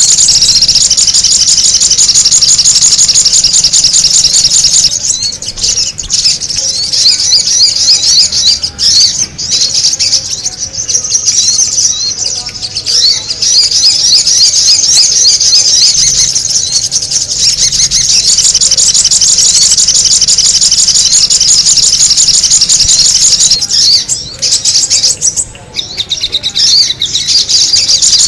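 Sogon bird calls used as a bird lure: a loud, dense, rapid high-pitched chatter of repeated notes. It thins out for a few seconds about a fifth of the way in and again near the end.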